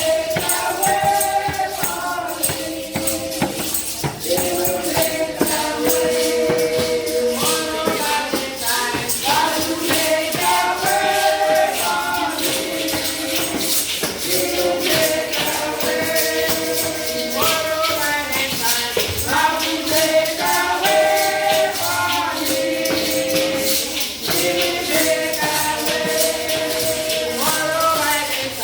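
A group of voices singing a song together, accompanied by jingling hand percussion shaken in a steady rhythm.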